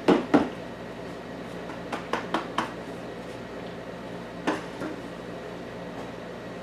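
Sharp knocks and clatters of hard objects while a sand-cast aluminum casting is broken out of its mold: two loud ones at the start, a quick run of four about two seconds in, and one more past four seconds, over a steady low hum.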